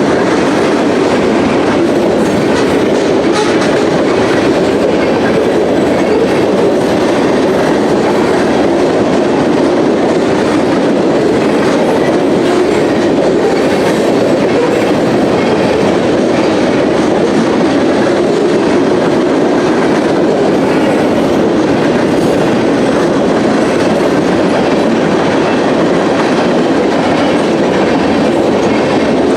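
Freight train rolling past at steady speed: a continuous rumble and clatter of railcar wheels on the rails.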